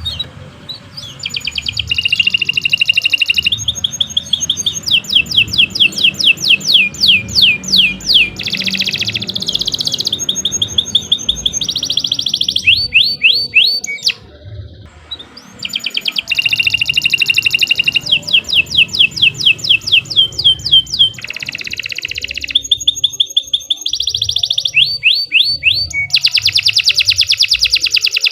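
Domestic canary in full song: a long, loud run of rapid trills and rolls made of quickly repeated rising notes, changing from one tour to the next, with a short break about halfway through.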